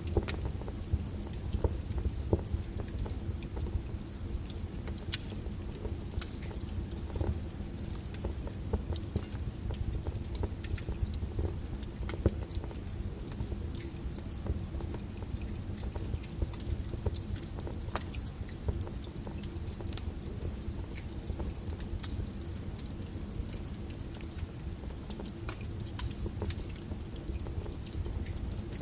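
Wood fire burning in a fireplace: a steady low rumble of flame with irregular crackles and pops from the burning logs throughout.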